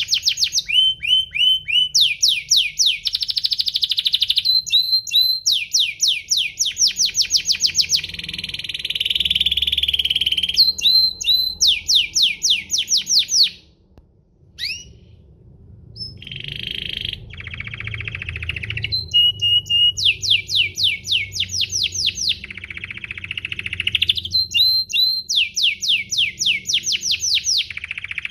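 Domestic canary singing a long song of fast, high-pitched trills and rolls, each phrase a quick run of repeated notes, with a brief break about halfway through.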